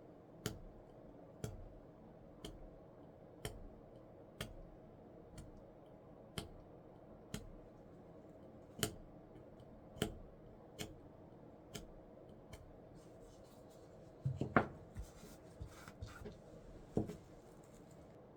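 Light sharp clicks about once a second, then a few louder knocks and clatters near the end, over a faint steady hum.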